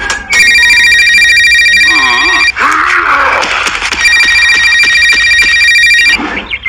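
Telephone ringing with an electronic ringtone: two rings of about two seconds each, with a gap between them.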